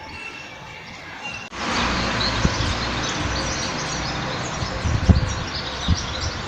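Many small birds chirping busily over a steady rushing background noise. About a second and a half in, the sound jumps abruptly louder. A few low thumps come later.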